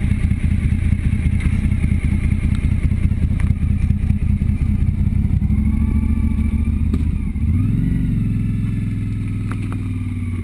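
BMW F800GS motorcycle's parallel-twin engine running with a steady low note; about seven and a half seconds in the note shifts and then holds even.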